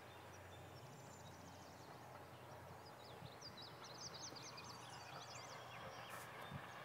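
Faint songbird song in a meadow: a quick run of short, high chirps from about three seconds in, with a thinner trill near the start, over a steady low background hiss.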